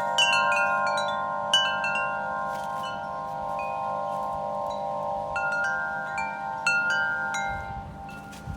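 Wind chimes ringing in gusty wind: scattered strikes leave long, overlapping ringing tones, the ringing dying away toward the end.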